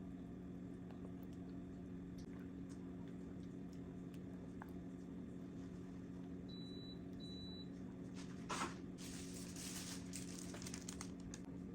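Steady low hum with scattered small clicks. About two-thirds of the way through come two short high beeps, then a brief burst of rustling noise that goes on for a couple of seconds.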